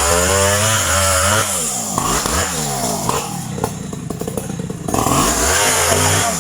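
Two-stroke chainsaw engine running at high revs, dropping to a rough low idle with throttle blips around the middle, then revving up high again.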